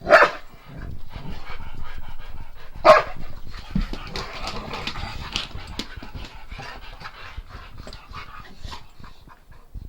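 Dogs at play: a sharp bark or yelp right at the start and another about three seconds in, with panting and a stream of short scuffling noises between and after.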